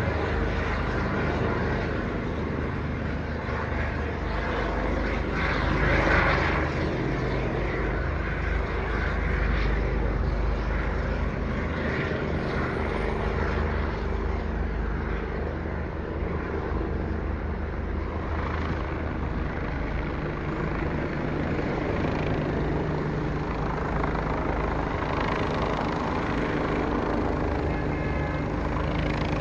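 Eurocopter EC145 police helicopter passing overhead: a steady drone of its main rotor and twin turbine engines, swelling briefly about six seconds in.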